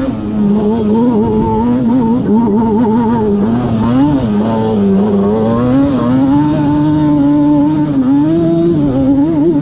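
Yamaha Banshee's twin-cylinder two-stroke engine, bored out with a Cheetah 426 big-bore kit, running hard and revving up and down as it is ridden. The pitch sags about four to five seconds in and climbs again near the end.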